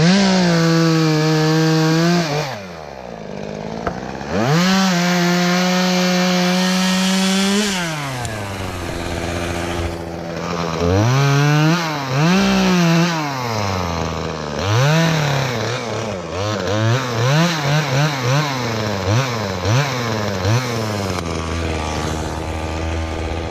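Chainsaw cutting willow wood: the engine revs up to full throttle and holds for two long cuts in the first eight seconds, dropping back between them, then runs through a series of short, quick revs toward the end.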